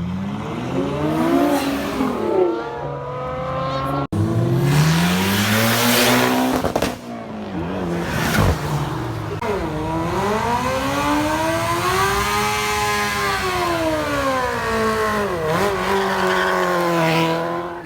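High-performance car engines accelerating hard and revving, the pitch climbing and then falling away as each car passes. The sound breaks off abruptly about four seconds in and another car's run follows, with a long rise and fall of engine pitch in the second half.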